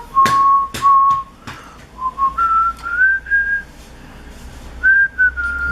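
A person whistling a slow tune in held notes that step up and down, with several sharp clicks and taps in between.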